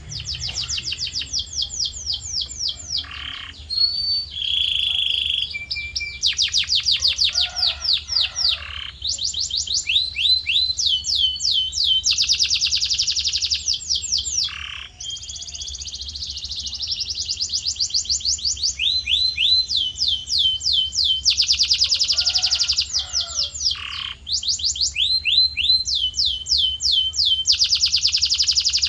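Male domestic canary singing its rolling song: fast trills of repeated falling notes, one phrase giving way to the next every second or two, with a short steady whistled note about four seconds in. A low steady hum runs underneath.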